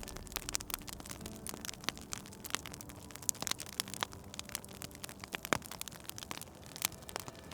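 Wood fire crackling, with irregular sharp pops and snaps over a soft hiss; one pop about five and a half seconds in is the loudest.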